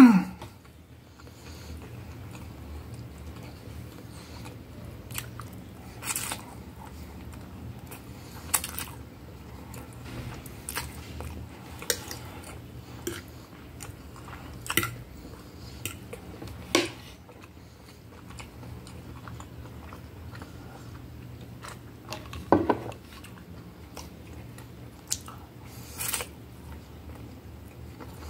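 Close-up mouth sounds of a person eating spaghetti: chewing, with short smacking sounds every second or two and a few louder ones.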